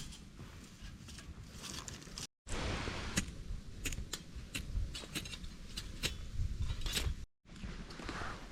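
Dry grass and twigs crackling and snapping in a small titanium pocket stove fire: a run of sharp clicks over a low rumble. The sound cuts out briefly twice.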